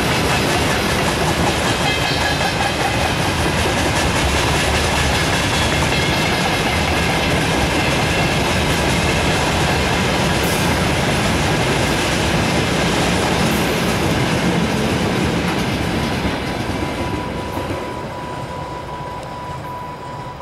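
Freight train of tank cars and covered hopper wagons rolling past at speed: a steady rumble and clatter of wheels over the rail joints, with faint thin squealing tones. It fades over the last few seconds as the end of the train goes by.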